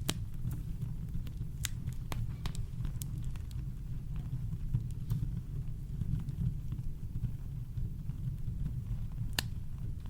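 Campfire crackling, with scattered sharp pops over a steady low rumble of brown noise.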